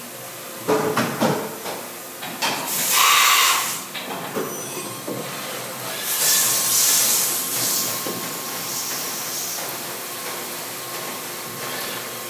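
Mitsui-Seiki vertical machining center running its program: a few knocks about a second in, then loud hissing bursts around three seconds and again around six to seven seconds in, with a thin steady whine from the spindle running under them.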